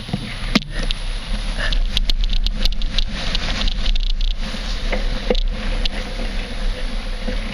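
Riding a Trek 820 mountain bike over rough ground: a steady low rumble of wind and road noise, with a run of sharp clicks and rattles from the bike about two to three seconds in.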